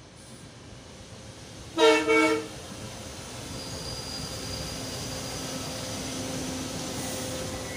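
SEPTA Regional Rail commuter train sounding two short horn blasts about two seconds in, then rolling past the platform with a steady rumble that grows louder, a low hum and a faint high whine.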